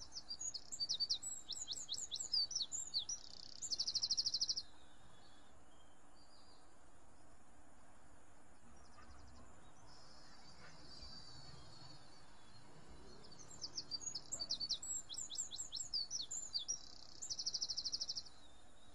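Birdsong: a quick run of high chirps ending in a short buzzy trill, heard about a second in and again near the end, with only a faint background between.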